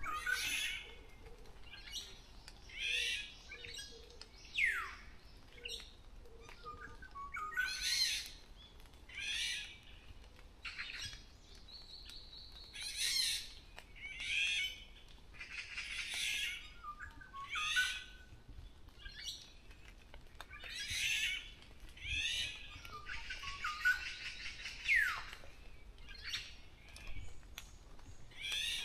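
Birds calling: short, harsh, chattering calls repeated every second or two, with two long whistles that slide downward in pitch and one briefly held high note midway.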